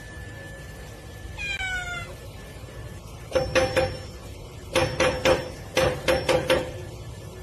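A domestic cat meowing: one drawn-out call about a second and a half in, then three quick runs of short, clipped calls that are louder.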